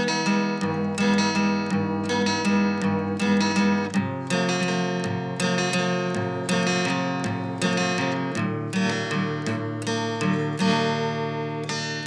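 Background music: acoustic guitar strumming and picking chords, with the chord changing about four seconds in and again about eight seconds in.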